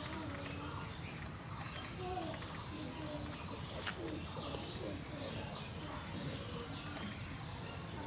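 Birds calling in a yard: repeated low, wavering calls mixed with many short, high chirps, over a steady low background rumble.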